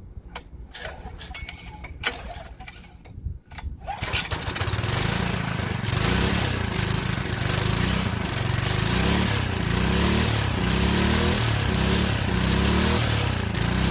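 Small gasoline engine on old lawn-care equipment being started: a few knocks and clicks, then it catches about four seconds in and runs loudly, its speed swinging up and down over and over. Its throttle springs have no tension, so the throttle does nothing.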